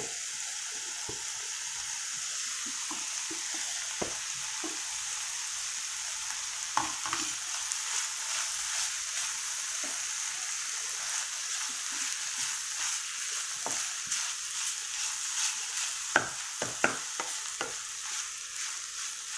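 Chopped onions and chicken sizzling steadily in a pan with melting cheese, while a wooden spatula stirs and scrapes them, knocking against the pan now and then. The knocks come closer together near the end.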